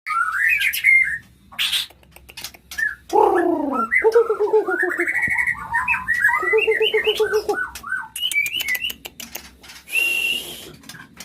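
White-rumped shama singing a varied song: quick clear whistled notes and slurs, broken by short pauses, with two runs of lower, harsher buzzy notes mixed in.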